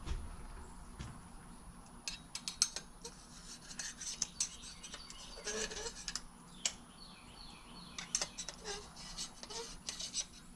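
Faint, scattered small clicks and scrapes of metal engine parts being handled while fitting a motorcycle cylinder over its piston.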